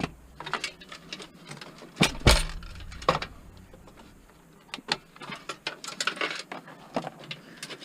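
Clicks, rattles and knocks of a desktop computer being dismantled by hand, its metal case and parts clattering, with a heavier knock about two seconds in.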